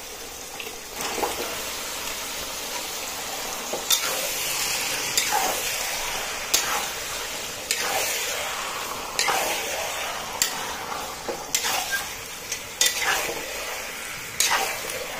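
Marinated chicken frying in hot mustard oil in a kadhai, a steady sizzle that swells about a second in as the chicken goes in. A metal spatula scrapes and knocks against the pan roughly once a second as it is stirred.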